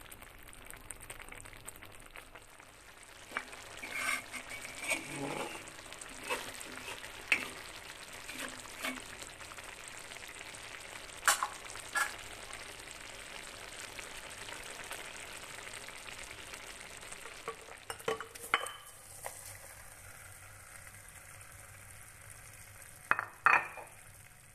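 Pork rendang in a thick coconut-milk gravy sizzling as it cooks in a pan, over a steady hiss, with scattered knocks and scrapes of a utensil stirring against the pan. Near the end come two louder sharp knocks.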